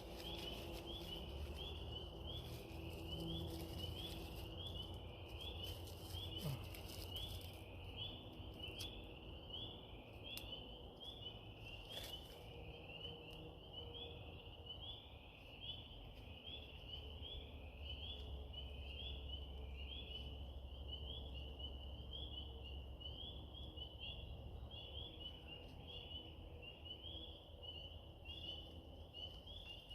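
A steady background chorus of short, high, rising chirps repeating a few times a second, from small calling animals. A few faint clicks sound around the middle.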